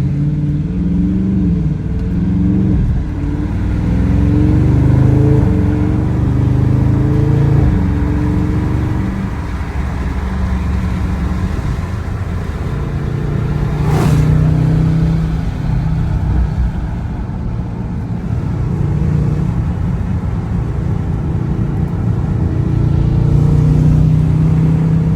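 The 6.4-litre HEMI V8 of a Dodge Charger Scat Pack with its mid muffler deleted, driving. Its exhaust note rises and falls in pitch for the first several seconds, then settles into a steadier run. A short sharp click comes about fourteen seconds in.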